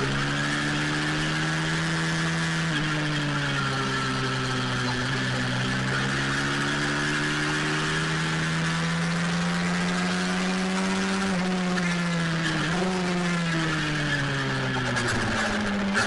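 Pit bike engine running under load, its pitch held high and swinging slowly up and down, with a quick dip and climb about three-quarters of the way through and a deeper drop and rise near the end.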